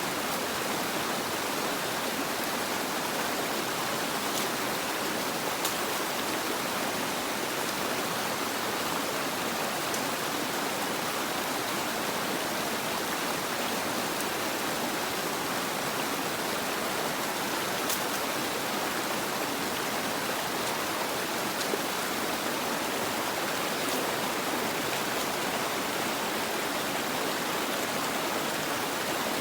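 Steady, even rush of water, with a few faint ticks scattered through it.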